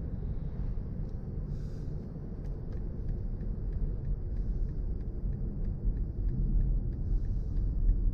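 Steady low rumble of road and wind noise in the cabin of a moving BMW i4 M50, an electric car, so there is no engine note.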